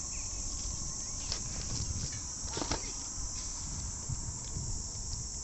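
Steady high-pitched chorus of insects, with a low rumble underneath and a few light knocks.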